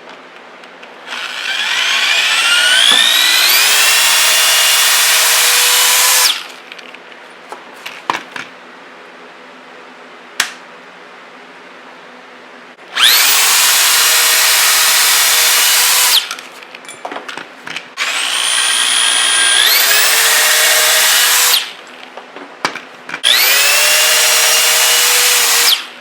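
Power drill boring pocket holes through a Kreg pocket hole jig into plywood, four runs of several seconds each. Each run starts with a rising whine as the drill spins up and then holds a steady pitch. Small clicks and knocks come between the runs.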